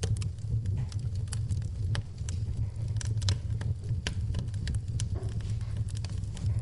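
Wood fire burning in a fireplace: a steady low roar with irregular sharp crackles and pops from the burning logs.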